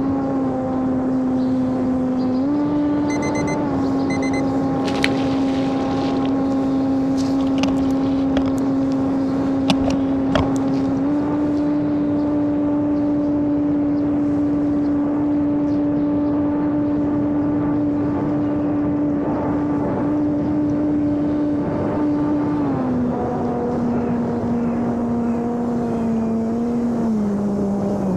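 Electric motor and propeller of a homemade RC airplane running with a steady whine that steps up and down in pitch as the throttle is changed, falling lower in two steps near the end as the power is cut back.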